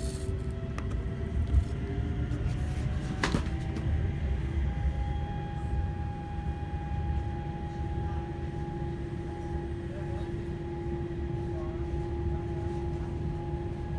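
Electric train running, heard from inside the carriage: a steady low rumble with a thin motor whine that rises a little over the first few seconds and then holds steady. A single sharp click about three seconds in.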